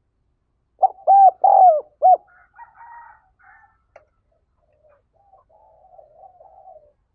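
Spotted dove cooing: a quick phrase of four coos about a second in, followed by faint, broken twittering notes.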